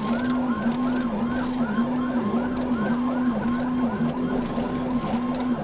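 Police car siren on the fast yelp setting, rising and falling about three times a second, over engine and road noise during a high-speed pursuit.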